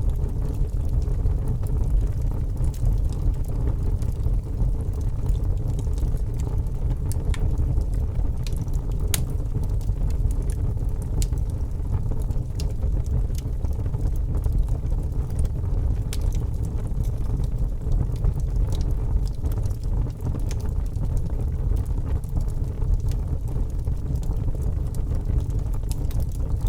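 Log fire burning in a fireplace: a steady low rumble with scattered crackles and pops from the burning wood.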